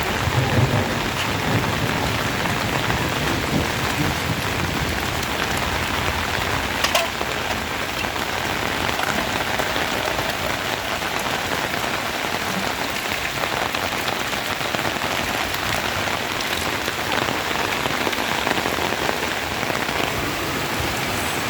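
Steady rain falling, an even hiss dotted with the ticks of individual drops. One sharper knock comes about seven seconds in.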